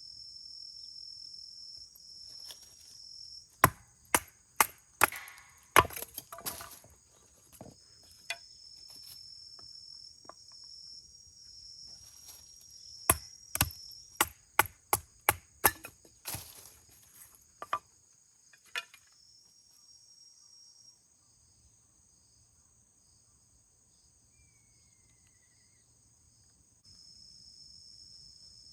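Firewood being chopped or split: two runs of sharp wooden knocks, about two a second, then a couple of single knocks. Insects trill steadily underneath and drop out for several seconds near the end.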